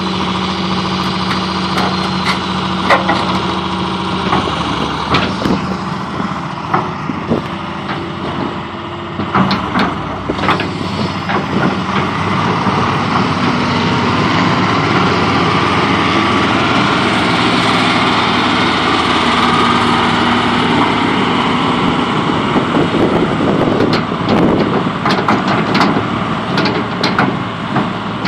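John Deere 200LC hydraulic excavator's diesel engine running as the machine is operated. It holds a steady note for the first several seconds, then works harder and louder through the middle, with scattered sharp metallic clanks and knocks.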